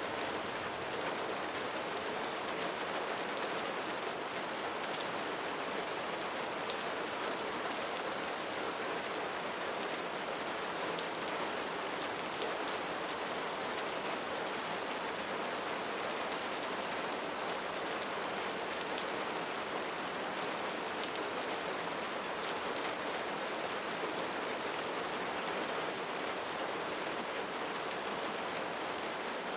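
Steady rain falling on leaves, with a fine patter of separate drops.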